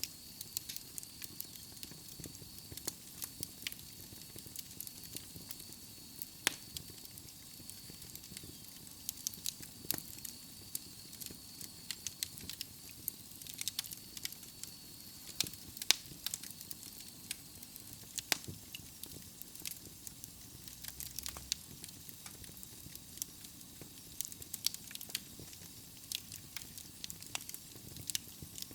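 Wood fire burning in a fireplace: logs crackling with irregular sharp pops over a soft hiss, and a thin high whistle during the first half.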